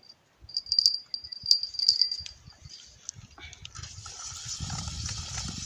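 Sharp clinks and rattles of fishing tackle as a bite is reeled in, over a steady high chirp of crickets. From about four seconds in, a steady hiss with low rumbling handling noise takes over.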